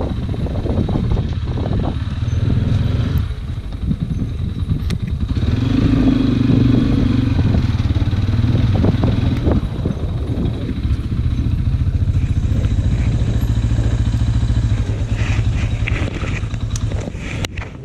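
Motorcycle engine running steadily under way, a continuous low drone that eases off slightly near the end.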